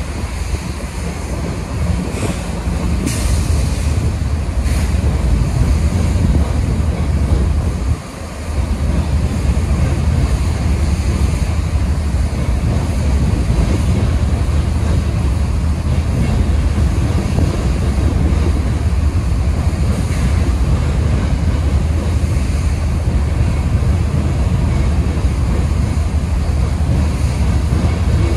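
Freight train of hopper cars rolling past: a steady low rumble of steel wheels on rail, with a few faint sharp clicks a few seconds in.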